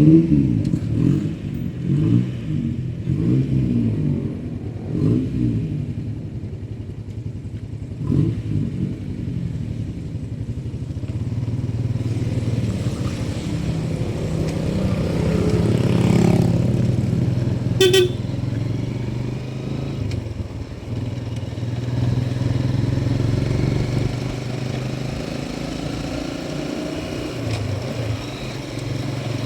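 Motorcycle engine running while being ridden, its pitch rising and falling with the throttle for the first several seconds, then holding steadier. A short horn beep sounds a little past halfway.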